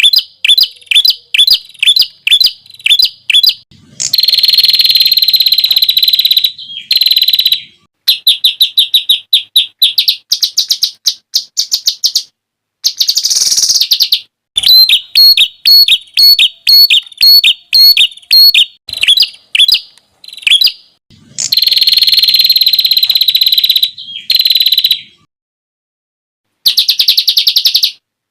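Songbird song: rapid, sharp, high-pitched repeated notes and fast trills, the 'tembakan' bursts prized in contest birds. The song comes in separate phrases of a few seconds, each cut off abruptly by a short silence, as in an edited compilation.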